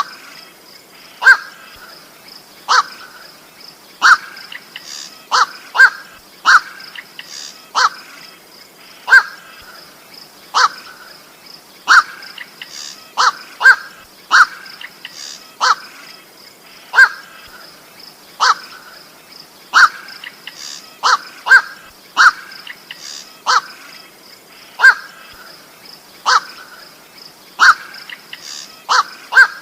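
Short, harsh single-note calls of the koak bird, repeated evenly about every second and a half. A faint steady high-pitched tone runs underneath.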